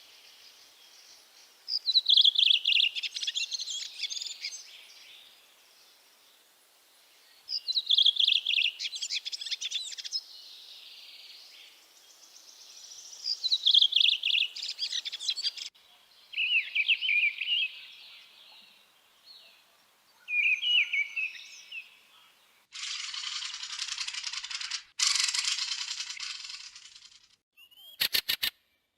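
A bird singing: three loud, high song phrases of about two seconds each, some six seconds apart, then two shorter phrases. Near the end come about five seconds of a steady hissing buzz and a few sharp clicks.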